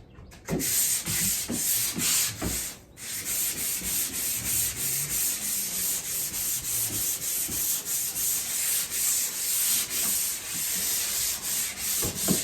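220-grit sandpaper rubbing over drywall in quick back-and-forth strokes, a steady scratchy hiss with a short break about three seconds in. This is the fine finishing pass after a coarser first sanding.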